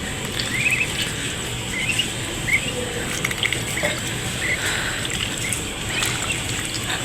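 Small birds chirping, in scattered short calls, over a steady background noise.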